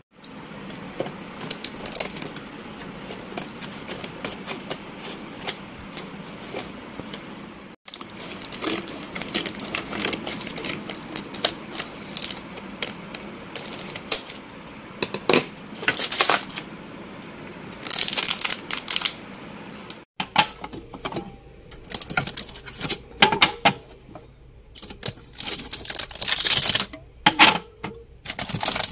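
Hard household items such as cans and containers being handled and set down, giving repeated light clicks, knocks and clatter over a steady hiss. The sound breaks off abruptly twice.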